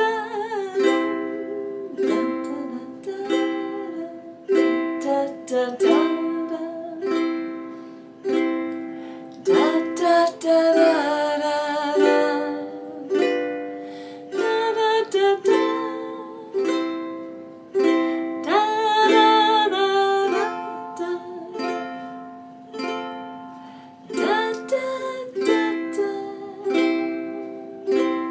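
Ukulele strummed in steady down strums through simple chord changes, with a woman's voice singing the melody along with it in places.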